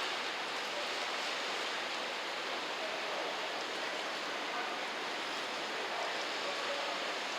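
Steady outdoor ambient noise, an even hiss with no distinct events.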